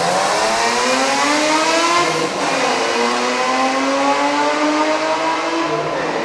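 BMW M3 straight-six engine with an aftermarket exhaust accelerating hard in a tunnel, the exhaust note climbing through the revs, dropping at an upshift about two and a half seconds in, then climbing again before another shift near the end.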